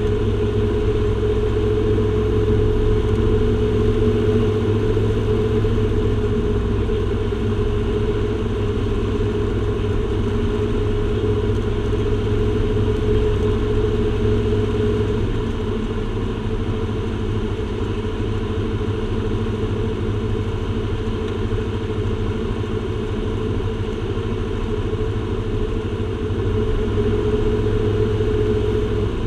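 Aircraft engines running steadily: a constant hum over a low rumble, easing a little about halfway through and building again near the end.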